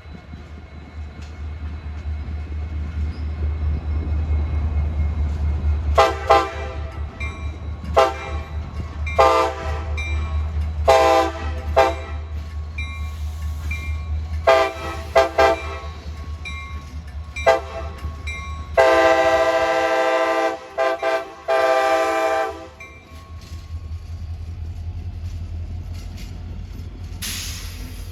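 Diesel locomotive rumbling past while its multi-chime air horn sounds a series of short blasts, then two long blasts. The rumble of the engine and train continues after the horn stops.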